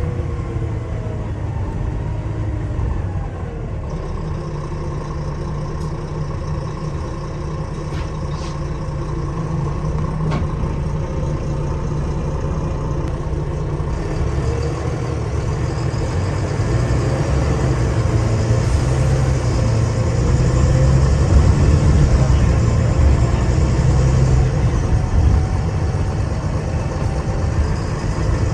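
Wright Eclipse Gemini 2 double-decker bus's diesel engine running under way, heard from inside the passenger cabin; the engine is loud, with its pitch shifting near the start and the sound building to its loudest about two-thirds of the way through as the bus accelerates.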